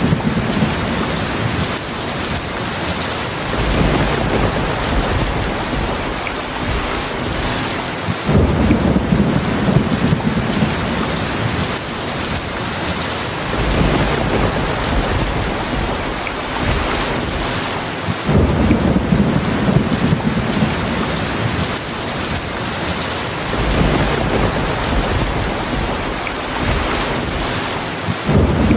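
Heavy rain falling steadily in a thunderstorm, with low rolling thunder rumbles that come in and fade out about every five seconds.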